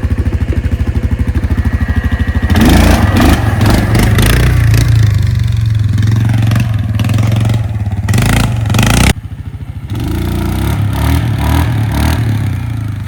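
A motor vehicle's engine idling with a fast, even putter, then revved hard from about two and a half seconds in, rising and falling in pitch with loud rattling and scraping. The revving cuts off suddenly near the nine-second mark and the engine runs on at a lower level.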